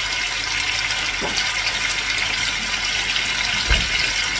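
Chicken pieces sizzling steadily in a hot pan as they start to brown. A brief low knock near the end.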